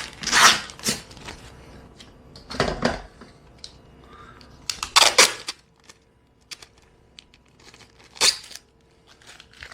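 Protective sticker being picked at and peeled off the espresso machine's stainless steel: a few short ripping, scratchy bursts with small clicks between them. The sticker splits in half instead of coming off cleanly.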